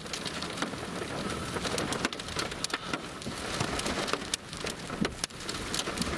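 Heavy rain pelting a vehicle's roof and windows, heard from inside the cabin: a dense steady hiss with many sharp ticks of individual drops striking.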